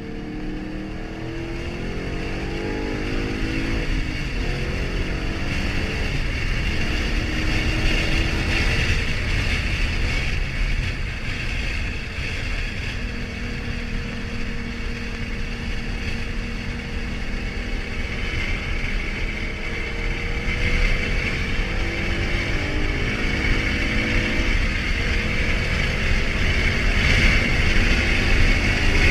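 2013 Ford Mustang GT's 5.0-litre V8 running hard under load. Its pitch climbs in sweeps near the start and again late on, with a steadier stretch in between, and it grows louder overall.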